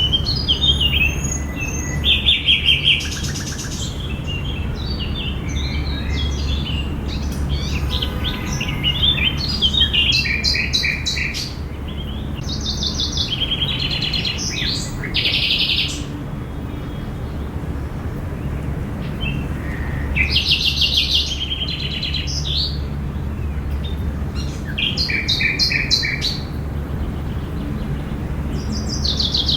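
Several songbirds chirping and singing in short phrases, one after another, over a steady low background hum of park ambience.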